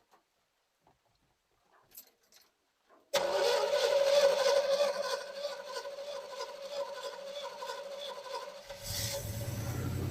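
Starter motor cranking a truck engine fitted with a freshly rebuilt GM two-barrel carburetor. It kicks in suddenly about three seconds in with a steady whine and fast pulsing, and a deeper engine note joins near the end as the engine begins to fire.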